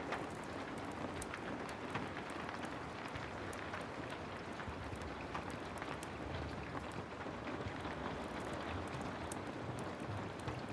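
Heavy rain falling steadily, with many scattered sharp clicks and crackles over it, like a wood fire crackling.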